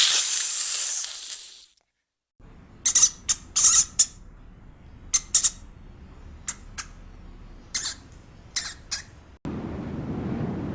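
A loud hiss that fades out, then after a short silence a series of short, sharp, high-pitched animal squeaks or chirps, some in quick pairs. Near the end a steady rushing noise cuts in suddenly.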